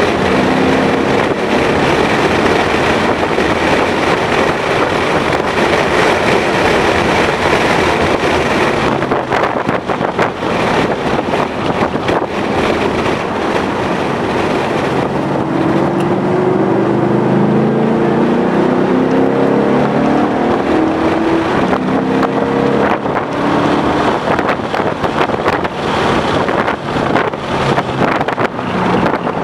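2011 Ford Mustang GT's 5.0-litre V8 being driven hard on a race track, its note climbing in pitch in several steps around the middle as the car accelerates through the gears. Heavy wind and road noise run underneath.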